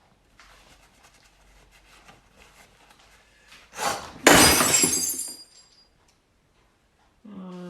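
A glass smashes about four seconds in: a short knock, then a loud crash with about a second of tinkling shards. Faint handling rustle comes before it.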